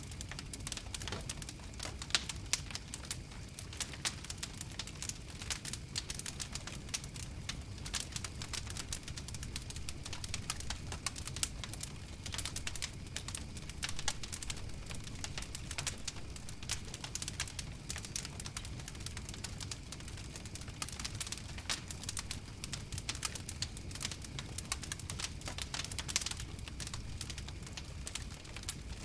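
Campfire crackling, with many small sharp pops and snaps at an irregular pace over a low steady rumble.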